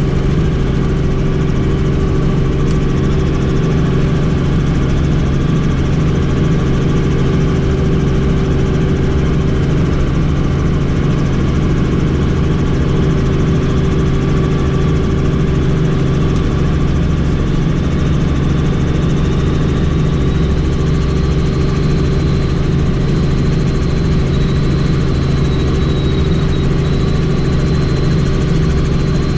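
Helicopter's turbine and rotor running steadily, a loud, unbroken drone with an even low pulsing. A faint thin high whine comes in about two-thirds of the way through.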